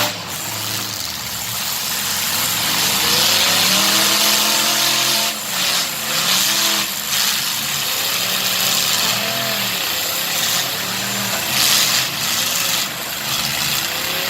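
Truck engine revving up and down over and over, its pitch rising and falling every second or two, with a loud rushing noise over it.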